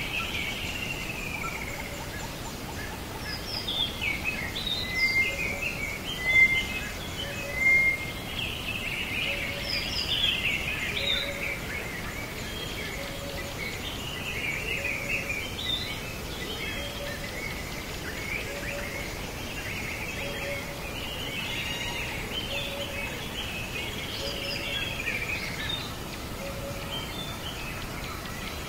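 Birds chirping and calling over a steady background hiss, with a faint low note repeating about every second and a half.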